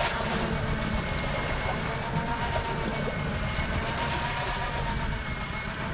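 Small electric motor whining steadily, most likely an electric deep-drop fishing reel running under load, over a constant wash of wind and sea noise.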